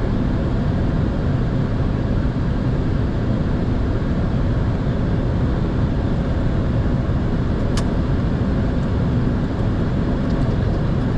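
Steady rushing airflow and system noise inside a Boeing 747-400 flight deck on final approach, heaviest in the low end. A single faint click sounds about eight seconds in.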